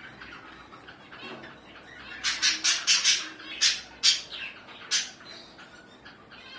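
Birds calling: a quick run of loud, harsh calls starting about two seconds in, then three single calls, over fainter chirping.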